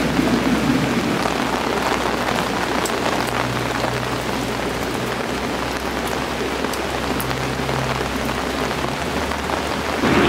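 Steady rain falling, with scattered individual drops ticking, over a faint low hum.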